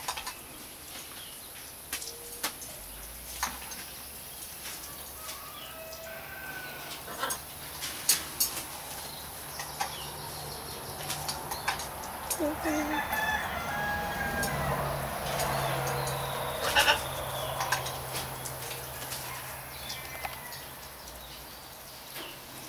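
A bird calling, with its densest, crow-like calling in the middle stretch, over scattered sharp clicks and taps and a faint steady low hum.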